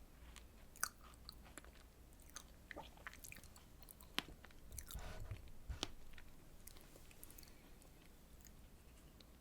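Close-miked chewing and biting of a soft strawberry dessert: scattered wet clicks and short crackles, busiest around the middle, then falling away to near quiet near the end.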